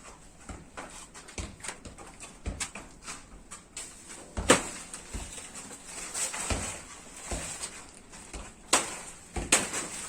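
A machete chopping into a plantain stem: a run of irregular sharp chops, about one or two a second, the loudest about four and a half seconds in.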